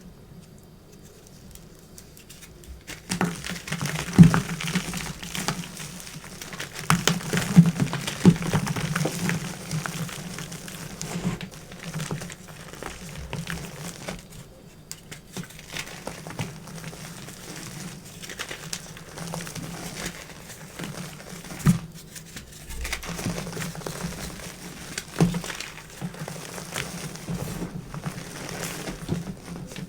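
Crunchy chalk being crunched and crumbled, giving dense, irregular crackling that starts about three seconds in, with a few sharper snaps along the way.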